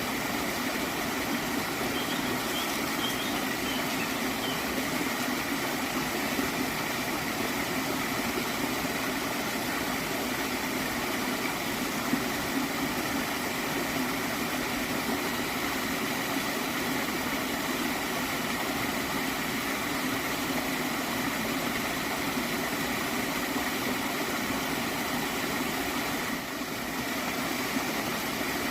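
Gently flowing stream water, gurgling steadily.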